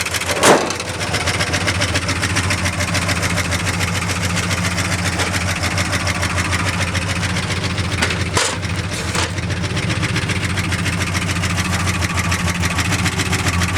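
1976 Ford F-250's 390 FE V8 idling steadily through new headers and exhaust, a worn engine with two low-compression cylinders that the owner says will probably quiet down after an oil change. A few short sharp knocks cut in, about half a second in and twice around eight to nine seconds in.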